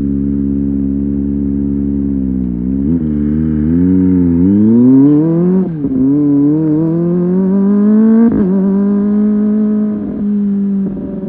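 Kawasaki ZX25R SE's 250 cc inline-four engine under way: it holds a steady note, then accelerates with its pitch climbing, cut by quick drops at gear changes about six and eight seconds in, and eases off near the end.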